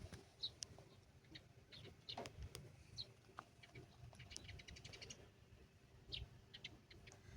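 Faint bird chirps and short calls at scattered moments, with a quick trill of rapid notes a little after four seconds in.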